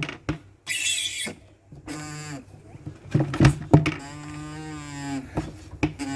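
Hand-operated mechanical oil pump being worked: knocks from the strokes, a short hiss about a second in, and long, moo-like squeaks, the longest lasting over a second near the middle.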